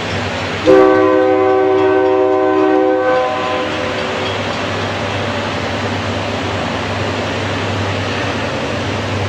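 Diesel freight locomotive's air horn sounding one long blast of about two and a half seconds, starting just under a second in. It sounds several notes at once, over the steady rumble of the moving train, which carries on after the horn stops.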